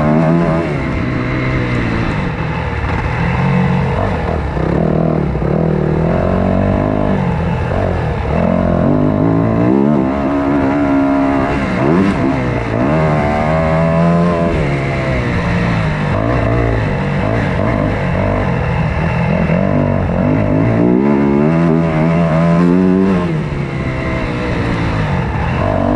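Motocross dirt bike engine revving up and down repeatedly, its pitch climbing and dropping every few seconds as the rider works the throttle and gears around a track, over steady wind and ride noise.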